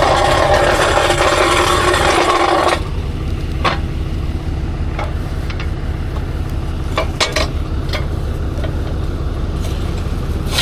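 A vehicle engine idling, a steady low hum. A loud rushing hiss over it stops suddenly about three seconds in, and a few light clicks follow.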